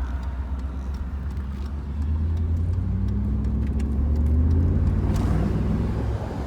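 Mercedes-Benz R129 500SL's V8 running through a muffler-deleted exhaust, heard from the open car on the move: a low drone that climbs in pitch and gets louder about two seconds in as the car accelerates, then eases off near the end.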